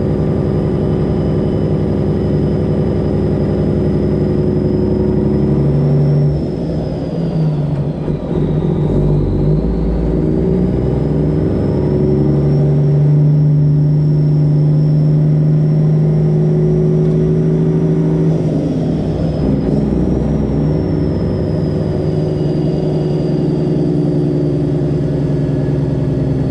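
The Freightliner Classic XL's Detroit Diesel 12.7-litre engine pulling the truck at low speed, with a high whine riding over the engine note. About six seconds in the engine note breaks up and the whine dips, as the driver lets off or shifts. It then settles and pulls steadily again, a little louder, with another brief change near the end.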